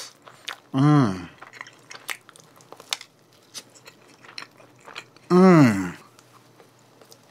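Close-miked chewing of a soft glazed doughnut: many small wet mouth clicks. The chewing is broken twice by a short wordless voiced sound from the eater, falling in pitch, about a second in and again about five seconds in.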